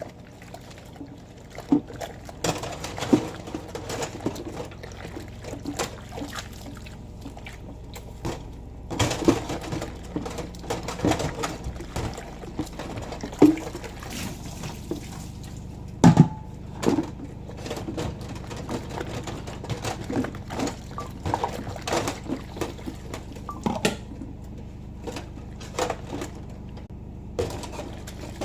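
Dishes being washed at a sink: water pouring and splashing, with frequent clinks and knocks of dishes throughout.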